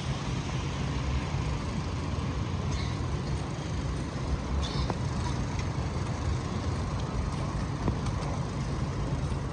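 City street traffic noise: a steady low rumble of vehicle engines running, with a few faint clicks on top.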